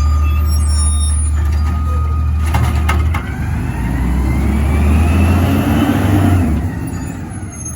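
Garbage truck engine running loud and low. It revs up and back down over a few seconds, with a few sharp metal clanks about two and a half to three seconds in. The rumble drops off near the end.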